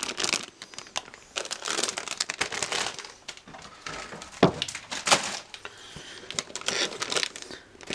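Plastic packaging of model-kit parts runners crinkling and rustling as they are handled, with irregular sharper crackles throughout.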